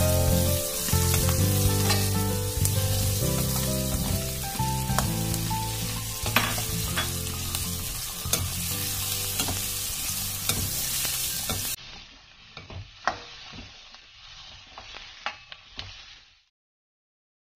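Sliced vegetables sizzling as they fry in a stainless-steel kadai, turned with a steel ladle that scrapes and clicks against the pan. The sizzle drops much quieter about 12 seconds in and stops shortly before the end.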